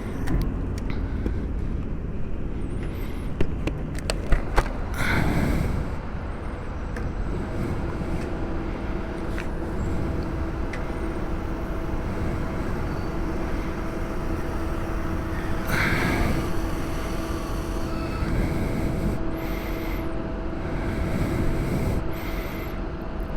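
Gas station fuel pump running while fuel is dispensed: a steady hum that starts about seven seconds in, over a low rumble of traffic. There are a few clicks in the first few seconds.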